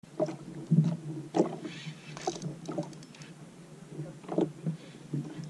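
Irregular knocks and bumps against a fishing kayak, with short splashes of water.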